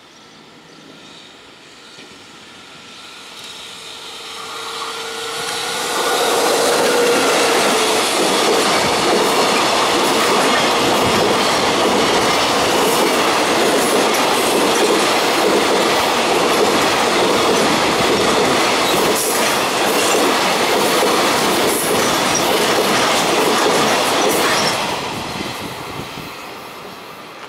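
EF65 electric locomotive hauling a long container freight train past, growing louder over the first six seconds with a steady whine as it approaches. The container wagons then run by with their wheels clicking over the rail joints, and the sound fades away over the last few seconds.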